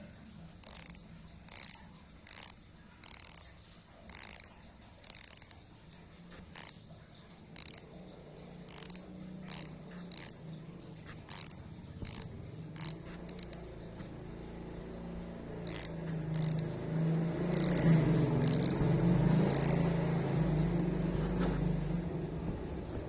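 Pacenti Boost 148 freehub with an XD driver buzzing as it freewheels: the pawls click rapidly in short bursts, roughly one a second, fewer in the later part. A low rumble rises underneath in the second half.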